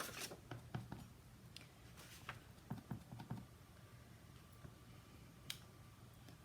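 Faint, scattered light taps and clicks of rubber stamping supplies and card being handled on a craft table, with one sharper click about five and a half seconds in.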